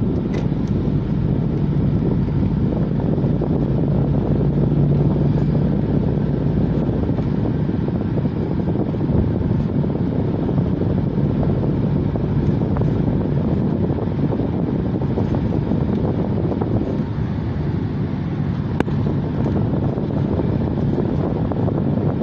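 A car driving at a steady speed: constant engine and tyre noise with a low, even hum.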